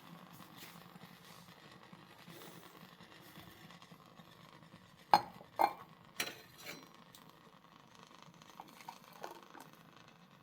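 Cups or dishes clinking: three sharp chinks about five to six seconds in, then a lighter one, over a faint steady hum.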